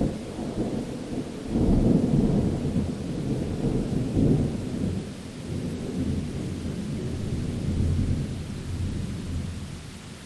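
Thunder over steady rain. A loud rumble rises about 1.5 seconds in and rolls on in swells, fading near the end, while the rain keeps up a steady hiss.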